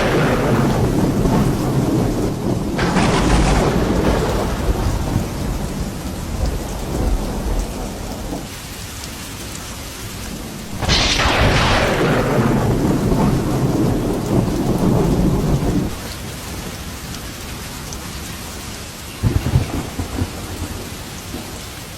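Steady rain with thunder: a sharp crack about 3 s in and another about 11 s in, each rolling into a long low rumble that dies away after a few seconds, then a short crackle near the end.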